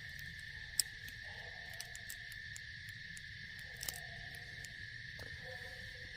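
Night insects, crickets, trilling steadily in one unbroken high note. Faint distant calls come and go underneath, with a couple of sharp clicks, one about a second in and one around the middle.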